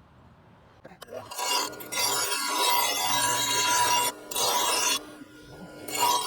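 Mower cutting blade being sharpened: steady rasping of metal on metal in long passes. It starts a little over a second in, with a short break about four seconds in and a quieter stretch near five seconds.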